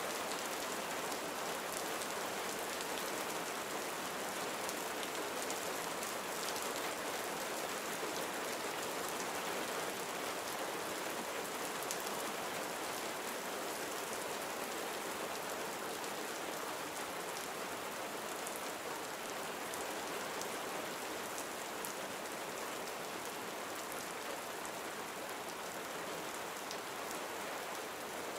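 Gentle rain falling steadily, an even patter of drops on surfaces with faint, fine drip ticks.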